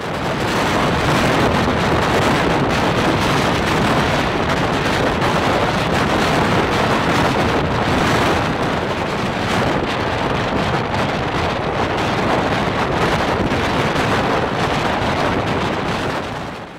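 Express passenger train running at speed, heard from aboard: a steady, loud rushing of wheels and air, with heavy wind buffeting the microphone.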